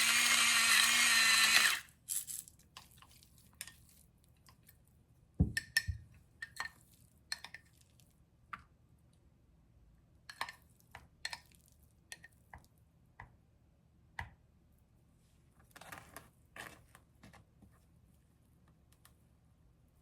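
A small electric motor runs briefly for about two seconds with a steady whir, then stops. Scattered light clicks and knocks follow, as of things being handled in a kitchen.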